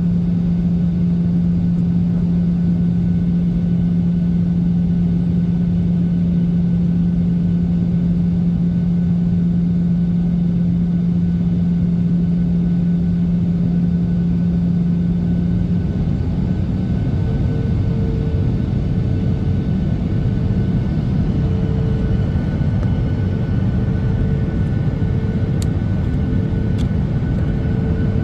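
Cabin noise in a Boeing 737-800, a steady rumble of its CFM56 engines and the airflow. A strong low hum runs until about sixteen seconds in, then stops, leaving a rougher rumble with a fainter, higher steady tone.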